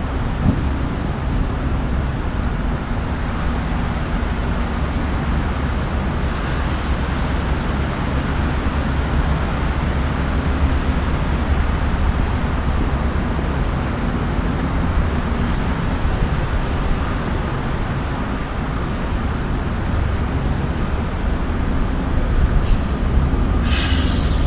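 Steady low rumble of street traffic, with a heavy engine running close by. Short hisses come about six seconds in and twice near the end.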